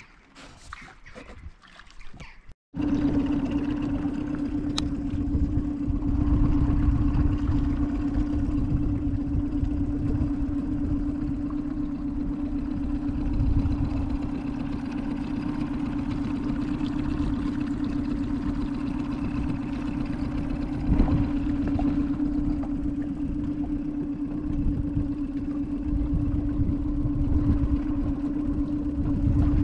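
Motorboat engine running steadily, a held hum over a low rumble. It comes in abruptly about three seconds in, after a quiet start.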